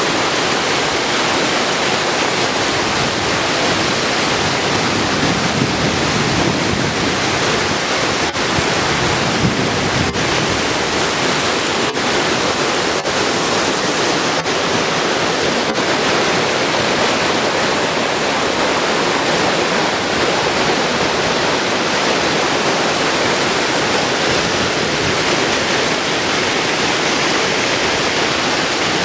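Steady, loud rush of a large waterfall: water plunging and crashing, a dense even roar with no break.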